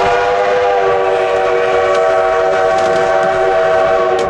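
Steam locomotive's chime whistle blowing one long, steady blast, a chord of several tones, that cuts off near the end.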